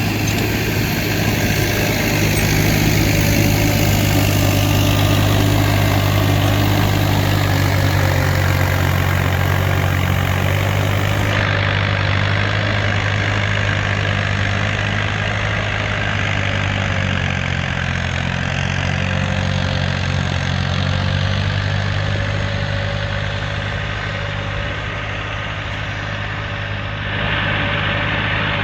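Tractor engine running steadily, its pitch wavering a little in places, with a slight rise in level near the end.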